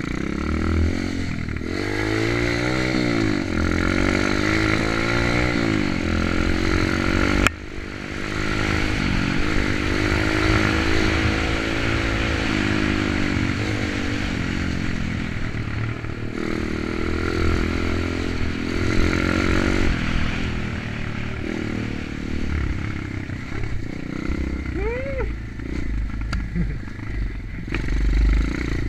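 Kayo 125 pit bike's single-cylinder four-stroke engine being ridden, its pitch rising and falling over and over as it revs up and down through the gears.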